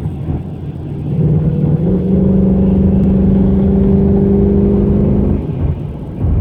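Inside a 2016 Mustang's cabin on the move: steady engine and road rumble, with a buzzing rattle from the loose headlight control knob panel that holds at one steady pitch from about a second in until about five seconds in.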